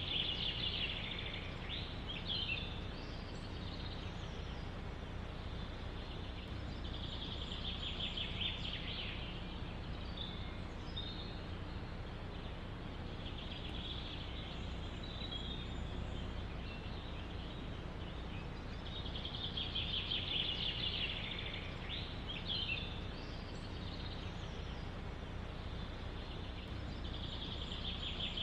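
A songbird repeats a short phrase of rapid high notes five times, about every six to eight seconds, over a steady low rush of wind in the forest.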